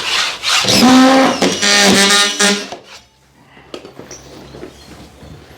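Power drill driving screws into a plasterboard sheet: a loud whine in two runs over about two seconds, the second a little lower in pitch. It stops about three seconds in, leaving faint knocks.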